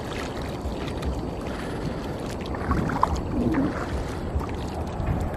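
Water sloshing and splashing as people wade, pulling a seine net, with a low rumble of wind on the microphone and a few small splashes a few seconds in.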